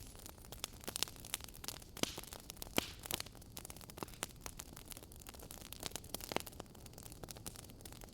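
Wood fire burning in a fireplace, crackling with many irregular sharp pops and snaps over a faint steady hiss.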